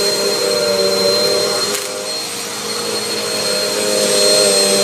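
Bissell Aeroswift compact bagless upright vacuum running, with a steady motor hum, a thin high whine and a rush of air. It turns briefly quieter about halfway through, then returns to full level.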